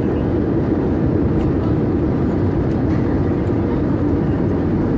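Steady drone of an Airbus A320-200 in flight, engine and airflow noise heard inside the cabin, deep and even, with a faint steady hum on top.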